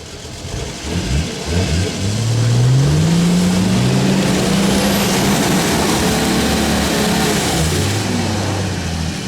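Off-road 4x4's engine revving up hard, held at high revs for several seconds, then dropping back to a lower steady speed near the end.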